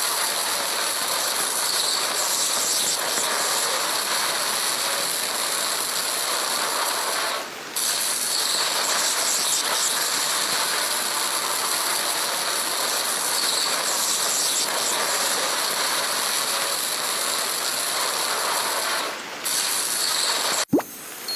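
Heavy rain pelting down in a dense, steady crackle. It drops out briefly twice, and there is a single sharp click near the end.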